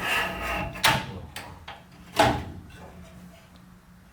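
Several knocks and clatters over a low steady hum, the loudest a sharp bang a little after two seconds.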